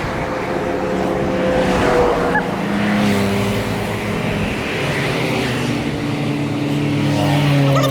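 Motor vehicles on the road running and passing close by: several engines at once, their pitch shifting, over a steady rush of road and wind noise.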